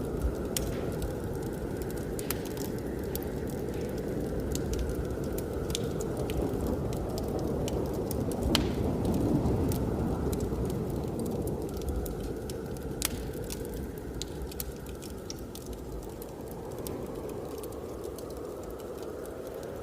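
Wood fire crackling with frequent sharp pops over a steady low rush of blizzard wind. The rush swells about halfway through.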